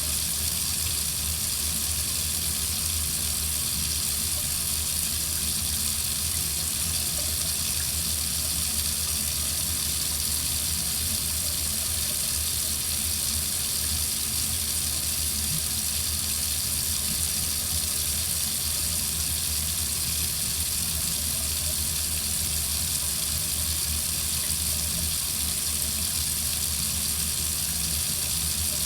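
Water running steadily from a faucet into a sink, an even unbroken rush.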